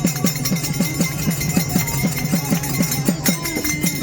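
Hand percussion with jingling metal playing a fast, even rhythm of about five or six strokes a second, over a steady low hum.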